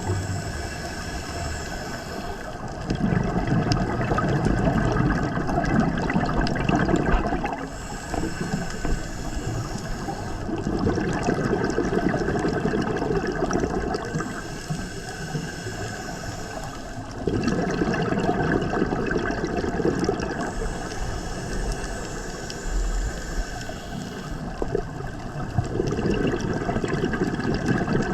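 Scuba diver breathing through a regulator: about four slow breaths, each a hissing inhale followed by a longer exhale of bubbles rushing upward.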